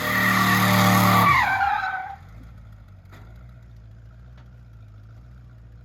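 Twin-turbo small-block Chevy 350 V8 held at high revs with tires squealing in a burnout, then let off about a second and a half in, the revs falling away. The engine settles to a low, steady idle, with two faint clicks.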